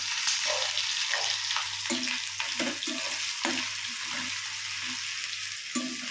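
Grated ginger sizzling in hot oil in a kadai, stirred with a steel spoon that knocks against the pan again and again.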